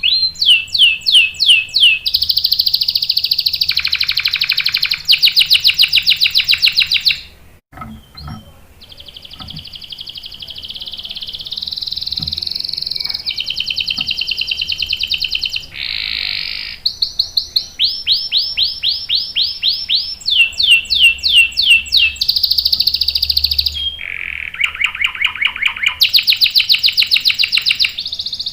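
Domestic canary singing: loud phrases of fast repeated notes and long rolling trills, changing speed and pitch from one phrase to the next. The song stops briefly about seven seconds in, then resumes.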